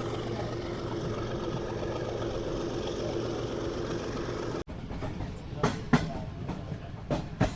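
Passenger train running, heard from inside the coach: a steady rumble with a low hum. About two-thirds of the way through, the sound breaks off abruptly and gives way to a rougher stretch with several sharp clicks or knocks.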